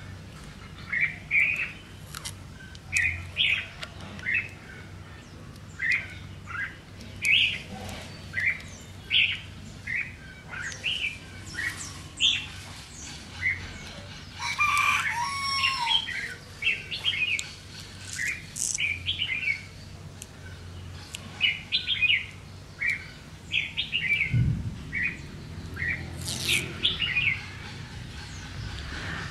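Small birds chirping, short high calls repeating every second or so, with one longer, louder bird call about halfway through.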